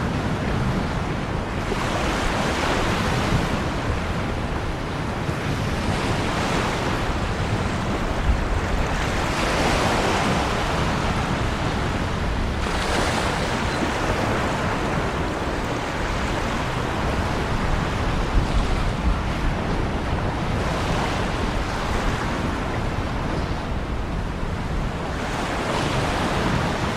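Ocean waves breaking and washing in, a steady rush of surf that swells every few seconds.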